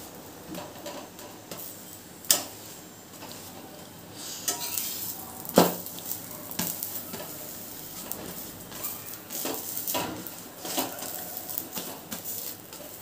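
Paratha frying in oil on a tawa, sizzling, while a metal spatula presses and turns it, scraping and clinking against the pan; the loudest clink comes about five and a half seconds in.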